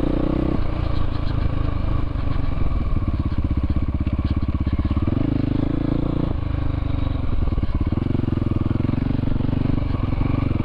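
Dirt-bike engine running at low revs. The revs drop about half a second in, pick up again around five seconds, and fall back about a second later.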